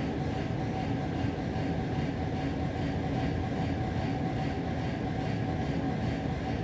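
A steady low rumbling drone with a faint constant hum above it, unchanging throughout; no distinct bangs or thuds stand out.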